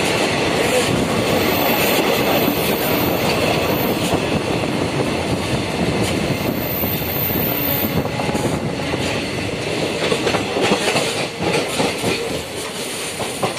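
Passenger train running along the track, heard from outside an open coach window: a steady rush of running noise with clicks from the wheels, more frequent in the second half.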